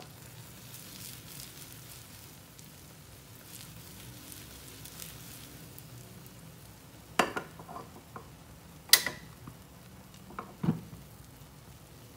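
Oil sizzling under a seaweed omelette frying in a nonstick pan, with several sharp knocks of the pan on the stove as it is shifted, the loudest about nine seconds in.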